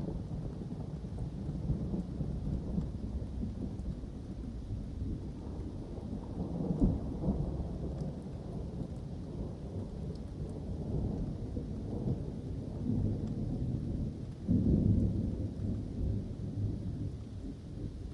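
Thunder rolling as a continuous low rumble through a summer thunderstorm, swelling louder about seven seconds in and again near the end, with rain falling under it.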